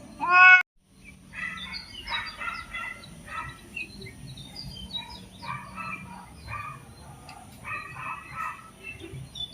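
Birds calling: a loud rising call right at the start, then after a brief break a run of short, harsh chattering calls repeated in clusters.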